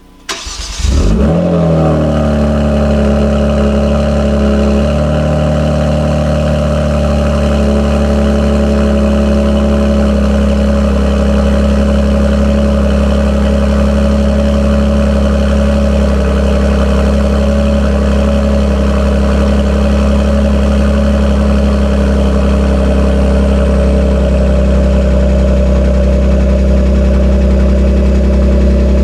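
Genesis G70 3.3T's twin-turbo V6 cold-starting through an ARK GRiP cat-back exhaust: a short crank, the engine catching about a second in with a rev flare, then settling within a few seconds into a loud, steady cold-start idle.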